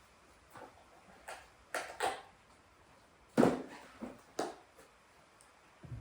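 Scattered knocks and clatters in a small room, about eight irregular hits with the loudest about halfway through, as tools and parts are handled at the start of the work.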